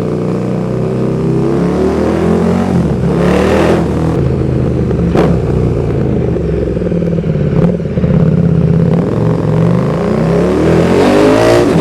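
KTM 1290 Super Duke R's V-twin running loud through a RaceFoxx link pipe and Pipewerx slip-on exhaust with the catalytic converter removed, so the exhaust is nearly straight-through. The engine note falls at first, then climbs again near the end as the bike accelerates, with a couple of sharp cracks in the middle.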